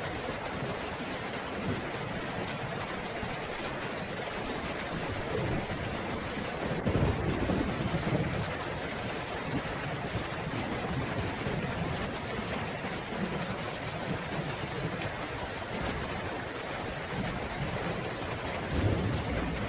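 Steady rain falling, with thunder rumbling low: one rumble swells about seven seconds in and lasts a second or two, and another comes near the end.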